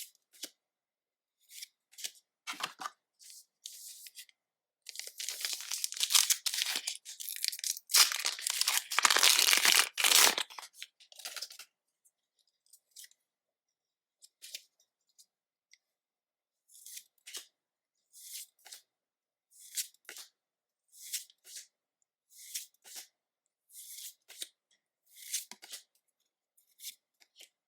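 Foil wrapper of a Pokémon card booster pack being torn open in two long, loud tears. Then come short, light swishes about once a second as the cards are handled one by one.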